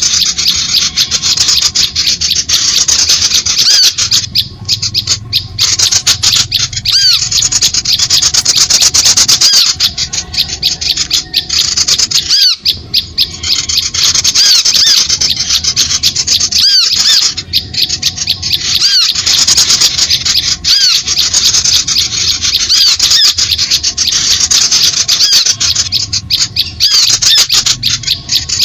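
Small birds' harsh, rapid chattering calls with many quick high-pitched notes, repeating in a loop: a bird-trapping lure call meant to draw small birds in.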